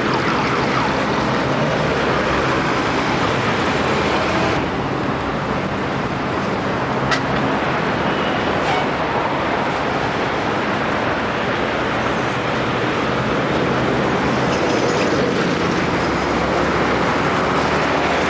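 Steady roar of road traffic from a busy city avenue, cars and buses passing, with a single sharp click about seven seconds in.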